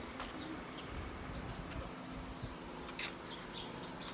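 Small birds chirping in the trees, short high chirps coming every half second or so, over a faint outdoor hiss. A single sharp click about three seconds in.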